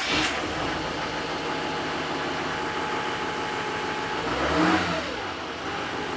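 GMC Duramax 6.6-litre V8 turbo diesel idling just after a cold start on its stock exhaust and muffler. It is blipped once, briefly, about four and a half seconds in, before settling back to idle.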